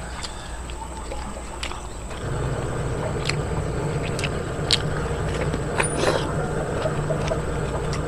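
Close-up eating sounds: chewing, with a handful of short wet mouth clicks and smacks scattered through, over a steady low hum.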